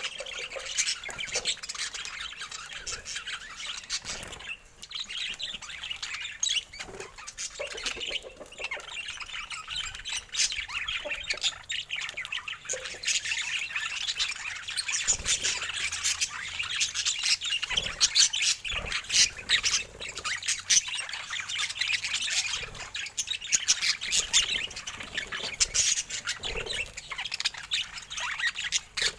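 Budgerigars chattering, a continuous busy stream of short chirps, squawks and clicks.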